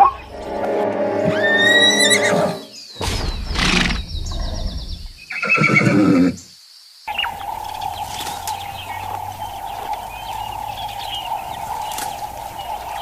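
Horse whinnying in the first couple of seconds, followed by a few shorter animal-sound clips. From about halfway through, a steady single tone runs with faint chirps over it.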